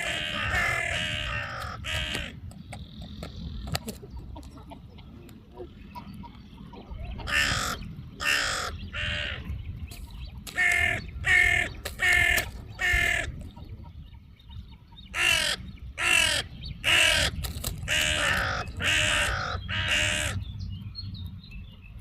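Crow cawing in runs of short, harsh calls, several in quick succession, with pauses of a few seconds between the runs, over a low steady rumble.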